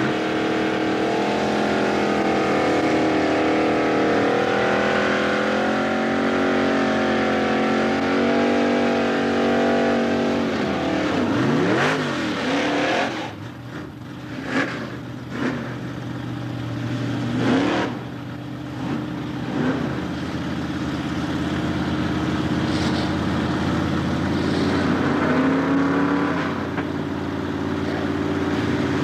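Drag cars' engines idling loudly and unevenly. Midway there is a run of short, sharp throttle blips, after which the engines settle back to a steady idle.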